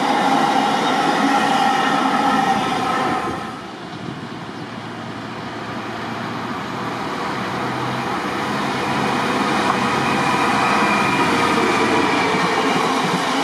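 Train running through a station: loud rolling rail noise with a steady whine. About three and a half seconds in, the noise and whine drop away sharply, then the rolling noise slowly builds up again.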